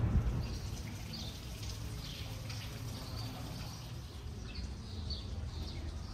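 Small birds chirping over and over in short, high notes, over a steady low background rumble.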